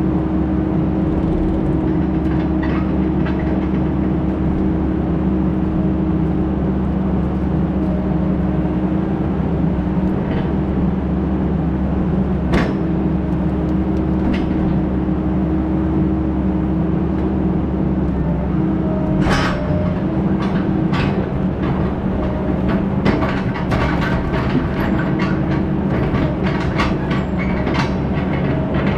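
Heavy diesel engine running steadily under a constant load, with clanks and rattles that come thick and fast through the last third.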